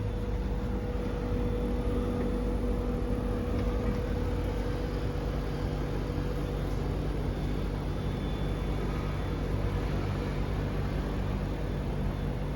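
Mitsubishi Electric GT28 inverter air conditioner running with a steady hum and several constant tones, and a faint high-pitched whine stronger in the second half: the abnormal high-frequency noise the owner is recording.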